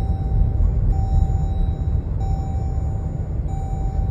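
Steady low rumble of a car on the move heard from inside, with a repeating electronic warning tone: one pitch held for about a second, then a short break, over and over.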